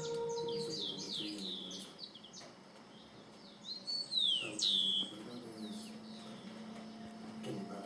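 Birds chirping: many quick, high calls, each sliding down in pitch, with a louder run of them about four seconds in.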